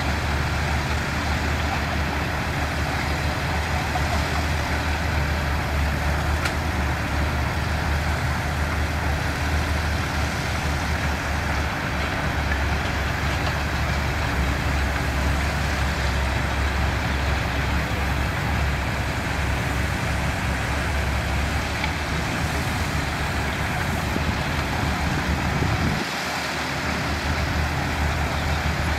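Diesel engines of heavy construction machinery, bulldozers and dump trucks, running steadily with a deep low rumble. The low rumble briefly drops out about three seconds before the end.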